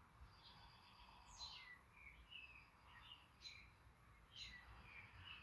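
Faint bird chirps over near silence: a scattering of short chirps and quick falling whistles at irregular intervals.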